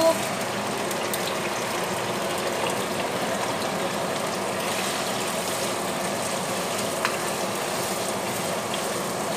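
Tofu cubes frying in hot oil in a wok, a steady sizzle, with a single light tap about seven seconds in.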